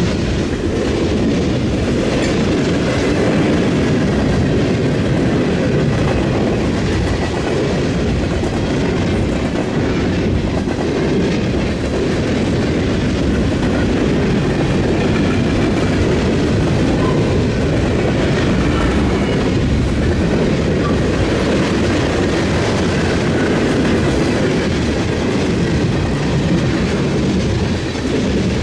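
Freight train cars rolling steadily across a railroad diamond crossing, their wheels clattering over the rail joints in a continuous run of clicks.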